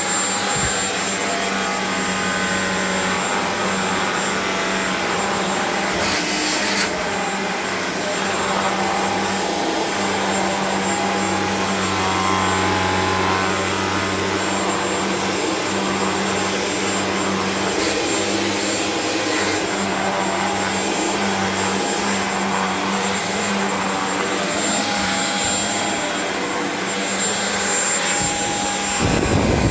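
Vacuum cleaner running steadily over a rug: a loud constant hiss of suction with a high motor whine, changing a little in tone as it is worked.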